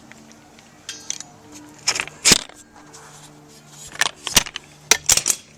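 Sharp metallic clinks and knocks, several scattered through a few seconds, from copper tubing and a tubing bender being handled during a bend.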